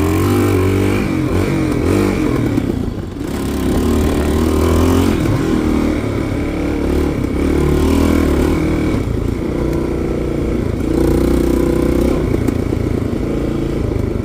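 1990 Yamaha XT350's single-cylinder four-stroke engine running under way, its pitch rising and falling in steps as the bike speeds up and eases off, with a brief let-off about three seconds in.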